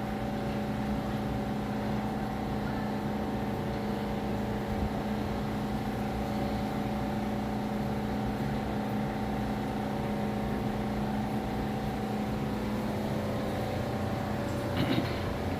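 A motor running steadily at a constant pitch.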